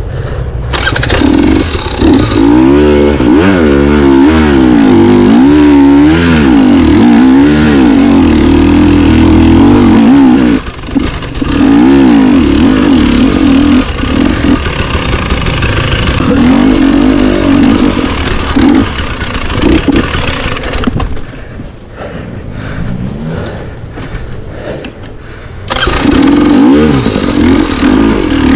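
Dirt bike engine on a trail ride, revving up and down as the throttle is worked. It eases off briefly about ten seconds in, runs quieter for several seconds in the last third, then opens up loud again near the end.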